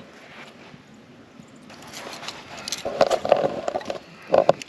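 Metal utensil scraping and knocking in a cast iron skillet as eggs are cooked and stirred. The knocks come in a scattered run from about two seconds in, over a faint steady hiss.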